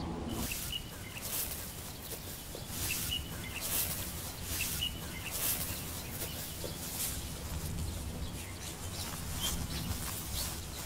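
Short bird chirps repeating every second or so, with hissy high-pitched bursts, over a steady low background noise.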